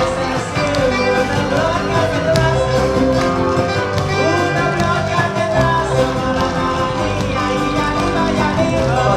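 A live band playing an instrumental passage led by guitar, steady and full throughout.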